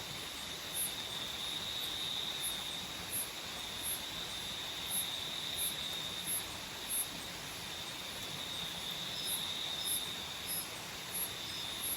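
Tropical forest night insects. One holds a steady high trill, and another, a cricket, chirps in short, very high pulses about every two-thirds of a second, over the constant rush of a nearby waterfall.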